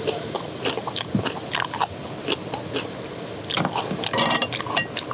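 Close-up crunchy chewing of napa cabbage kimchi: a rapid run of sharp, crisp crunches as a mouthful is bitten and chewed, busiest a little before the end.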